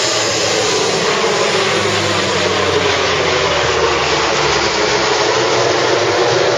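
Lockheed C-130J Hercules making a low pass, its four turboprop engines and propellers giving a loud, steady drone. The tone sweeps as the aircraft goes by, and the low engine hum thins out near the end.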